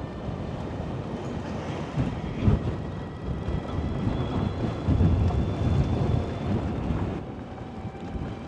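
Riding noise from an electric motorcycle on a gravel road: tyres crunching and rumbling over the gravel and wind buffeting the microphone, with a couple of louder bumps and a faint steady high whine.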